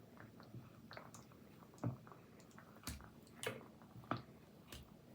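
A few faint, sharp clicks and light taps, about five spread over several seconds, over a quiet background.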